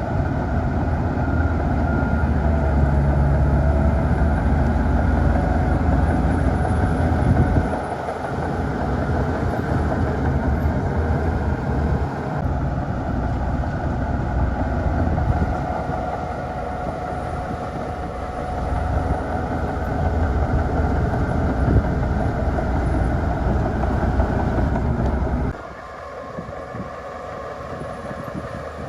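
Heavy diesel earthmoving machinery working, most likely a Shantui DH17 bulldozer's engine under load. The engine noise rises and falls with a deep rumble and drops off suddenly near the end.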